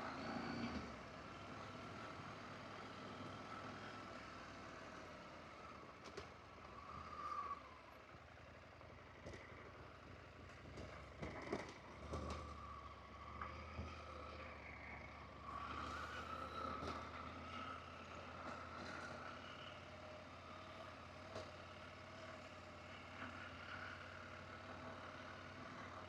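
Adventure motorcycle engine running faintly as the bike rides a dirt forest road, its note wavering a little, with a few short knocks from the rough ground.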